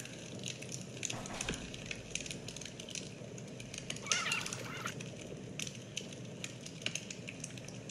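Irregular crackling, made of many sharp pops and snaps, typical of a wood fire burning. A short wavering bird-like chirp comes about four seconds in.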